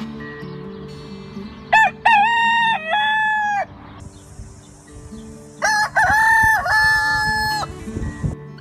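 Rooster crowing twice, each crow lasting about two seconds, the second starting about two seconds after the first ends.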